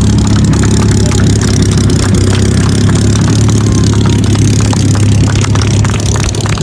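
Boeing B-17 Flying Fortress's four Wright Cyclone radial engines droning steadily, with frequent short crackles over the drone.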